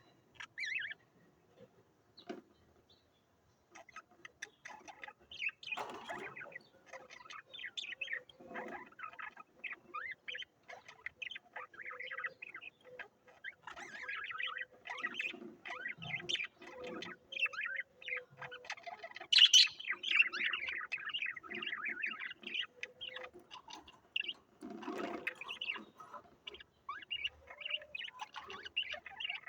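Small cage birds chirping and twittering, a few calls at first, then a dense, continuous chatter of quick chirps from about four seconds in, with one sharp, loud call a little past halfway.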